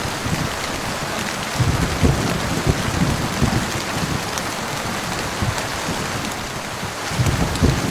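Heavy rain falling steadily, with low rumbles of thunder coming and going, strongest about two seconds in and again near the end.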